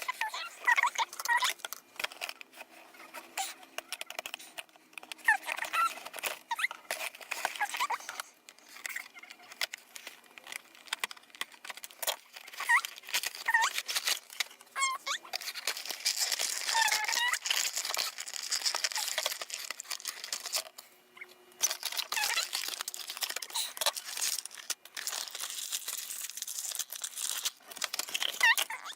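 Littlest Pet Shop toy packaging being opened by hand: plastic blister and cardboard crinkling, crackling and tearing, with short squeaks of plastic.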